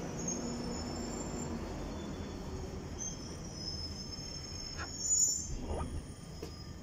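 London Underground Northern line train moving through the station below, a low steady rumble of wheels on track. A thin, high-pitched squeal rises over it about three seconds in and swells just after five seconds.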